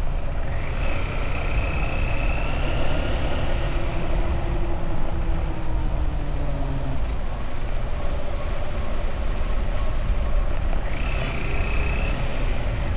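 Motorbike engine running under way, with a dense rumble of road and wind noise. A higher whine rises and holds briefly twice, about a second in and near the end.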